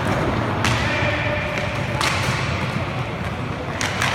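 Inline hockey play: three sharp knocks of stick and puck, each with a short echo, over a steady low rumble.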